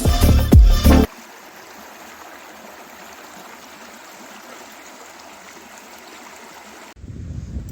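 Background music cuts off about a second in, then the steady rush of flowing stream water. Near the end it cuts to a louder, different outdoor sound.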